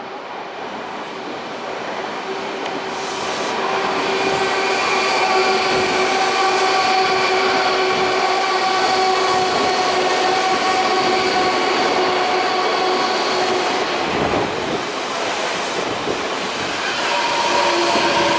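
Odakyu 4000 series electric train running, its IGBT-VVVF inverter giving a whine of several steady tones over wheel and rail noise. The sound grows louder over the first few seconds, and the inverter tones change to a new set near the end.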